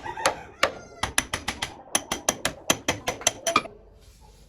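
Rapid run of sharp metallic clicks, about five a second, from a mechanism being worked, like a ratchet. It stops shortly before the end.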